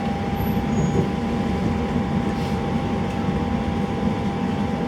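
Elizabeth line Class 345 train running between stations, heard from inside the carriage: a steady low rumble with a faint steady whine above it.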